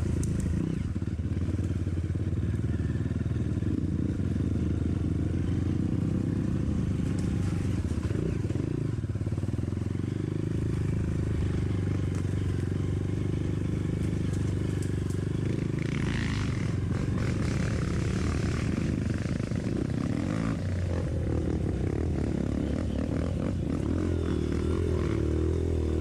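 Dirt bike engine running steadily while riding a trail, with a brief burst of higher-pitched noise about two-thirds of the way in.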